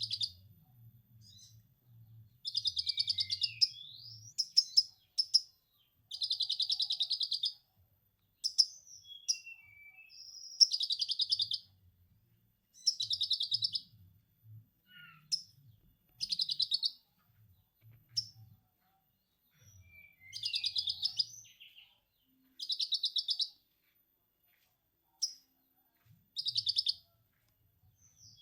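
A konin songbird singing a mimicked lovebird 'ngekek' chatter: rapid high trills about a second long, repeated a dozen or so times with short gaps and scattered chirps between.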